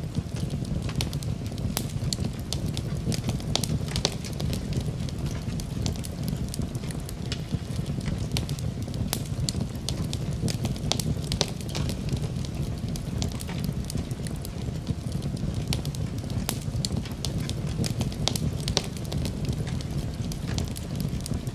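Wood fire in a fireplace crackling: a steady low rumble of flame with frequent sharp, irregular pops and snaps of burning wood.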